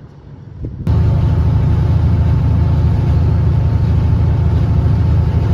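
Mack V8 diesel truck engine running steadily at highway cruise, heard from inside the cab; it starts suddenly about a second in.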